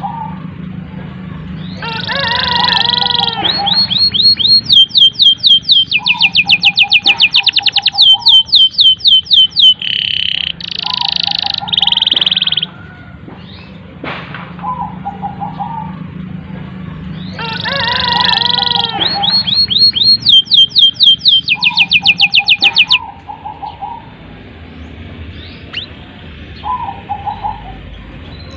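Domestic canary singing two long song phrases of rapid trills and fast repeated high notes, separated by a pause of about four seconds. Shorter, lower warbling phrases come in between.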